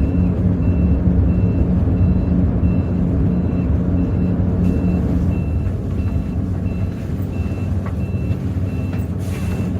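Electronic warning beep repeating about twice a second over the steady low hum of the bus's Hino J08E-VD diesel engine running at low speed. There is a short hiss of air near the end.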